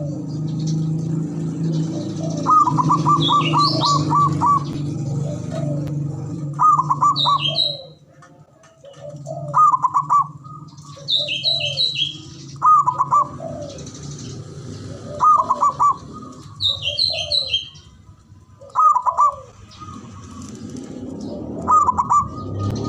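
Zebra doves (perkutut) singing: a male's rhythmic coo phrase of quick stuttering notes, repeated about every two to three seconds, with shorter falling coos from another dove between them. Thin high chirps from small birds come in between the phrases, over a steady low hum that fades out about a third of the way in and returns near the end.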